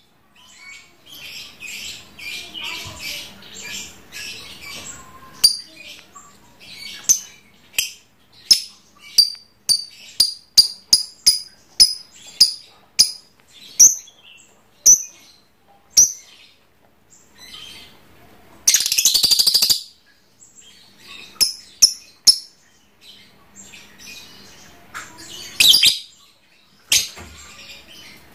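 Lovebird calling: stretches of high chattering and a run of short, sharp chirps about two a second, broken by fast, dense trilling bursts of its 'ngekek' song, the loudest about two-thirds of the way through and another near the end.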